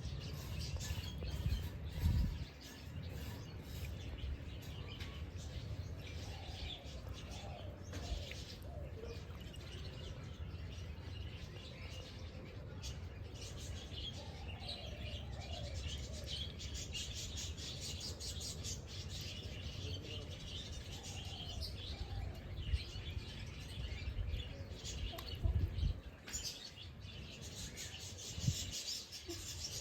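Several birds chirping and calling over one another, with quick high chirps and trills and some lower gliding calls, over a low rumble with a few heavier low thumps.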